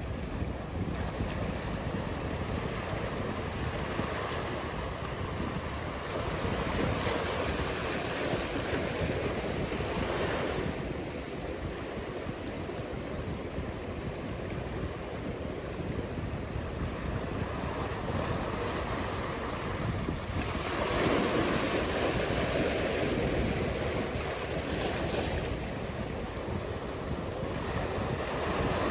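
Ocean surf: waves breaking and washing in as a continuous rushing noise that swells louder several times, with wind noise on the microphone.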